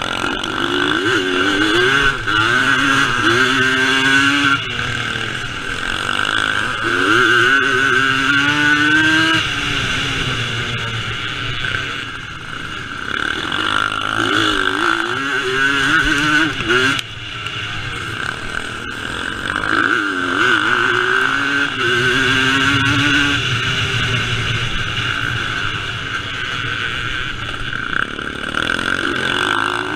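Vintage motocross motorcycle engines racing, revving up and dropping back again and again as the bikes accelerate, shift gear and back off around the track.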